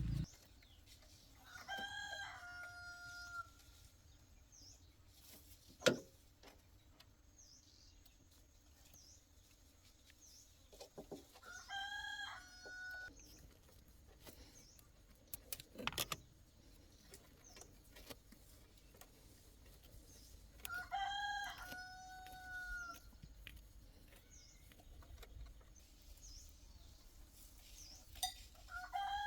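A rooster crowing four times, about every nine seconds, each crow a long call with a held, falling tail. Two sharp knocks fall between the crows.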